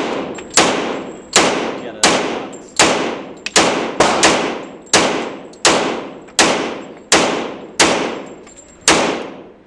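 Firearm shots in a steady string of about a dozen, roughly one every three-quarters of a second. Each shot is sharp, with a short echoing tail.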